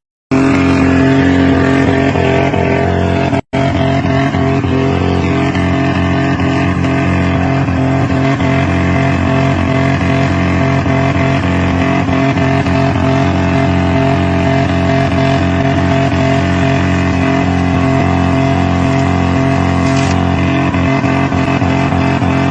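A vehicle engine drones at a constant pitch under steady road noise, as picked up by a dash camera. The sound cuts out completely for a moment about three and a half seconds in.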